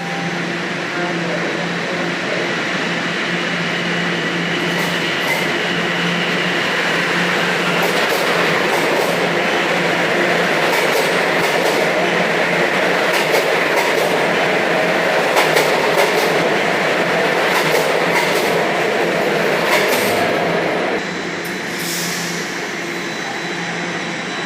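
Toronto Rocket subway train moving through a station: a continuous rumble with a steady hum and whine, and scattered clicks and clacks of the wheels over the rails. The sound builds slowly, then drops suddenly about 21 seconds in.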